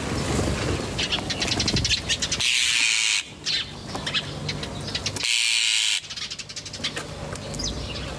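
Birds chirping and twittering in quick runs, broken twice, about two and a half and five and a half seconds in, by a loud harsh screech lasting under a second.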